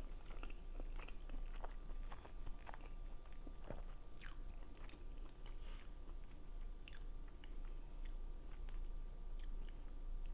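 A person chewing food close to the microphone, with many small wet mouth clicks scattered throughout.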